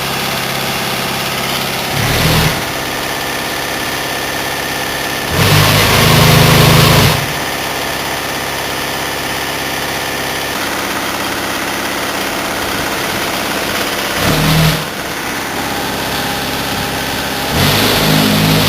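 Cement tanker truck's diesel engine running steadily, with four louder surges: two brief ones and two lasting about a second and a half.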